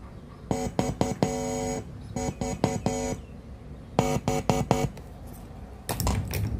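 Instrumental music from a cassette radio's speaker: quick runs of short plucked or keyboard-like notes in groups, with one held note about a second in. About six seconds in, a burst of rumbling noise cuts across the music.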